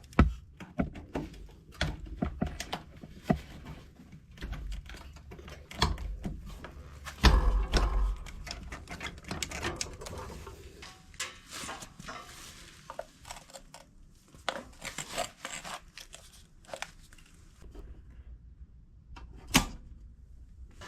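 Irregular knocks, clicks and rattles of tools and metal parts being handled, with heavier thuds just after the start and about seven seconds in.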